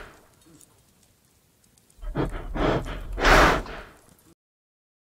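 Reindeer breathing out hard in a run of three breathy puffs about two seconds in, the last the loudest. The sound cuts off suddenly a little after four seconds in.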